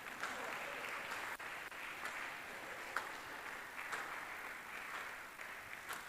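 Church congregation applauding, a faint, steady spread of clapping.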